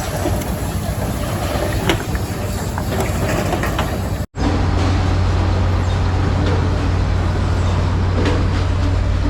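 Machinery clattering and rumbling with scattered knocks. After an abrupt cut about four seconds in, a steady machine hum with a low drone takes over.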